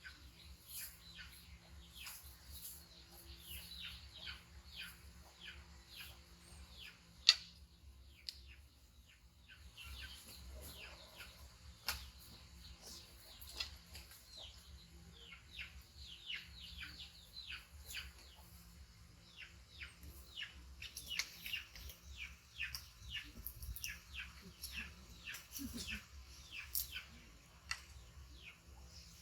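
Birds chirping: many short, high chirps that fall in pitch, repeating several times a second in runs. A single sharp click comes about seven seconds in.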